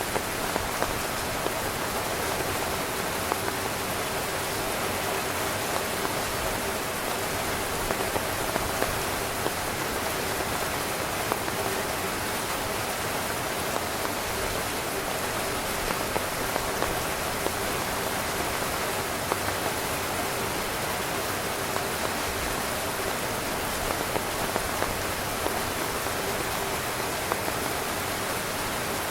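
Steady heavy rain falling on a tent, with many individual drops tapping sharply on the fabric over the even hiss of the downpour.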